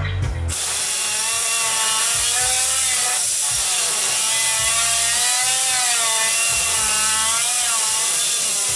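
Power tool cutting through car body metal: a loud, steady hissing grind whose pitch wavers up and down as the load on the tool changes.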